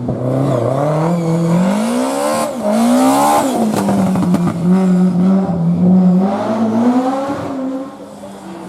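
Historic rally car engine at full throttle, pitch rising through the revs then dropping sharply at a gear change about three and a half seconds in, before climbing again. The engine fades away near the end.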